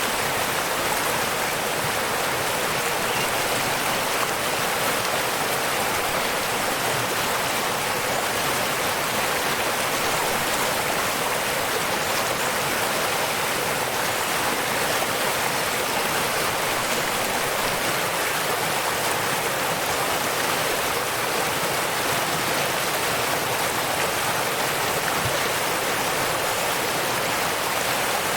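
Water falling and rushing in a steady, unbroken splashing roar, a waterfall running into a stream.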